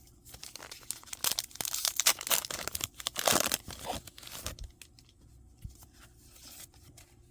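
Foil booster pack wrapper being torn open and crinkled: ripping and crackling for about three and a half seconds, then a few light rustles and clicks.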